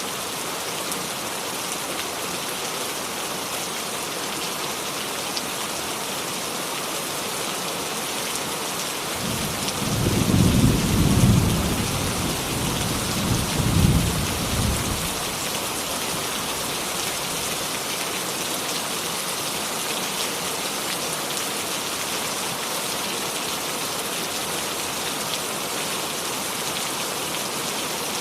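Steady rain falling, with a low rumble of distant thunder about a third of the way in that lasts around five seconds, swelling twice before it fades.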